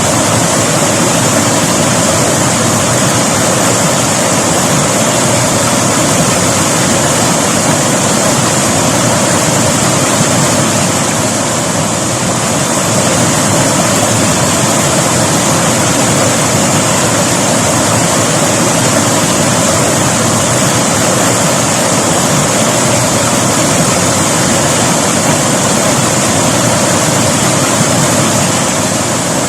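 River water rushing over rocks, a loud steady roar of flowing water.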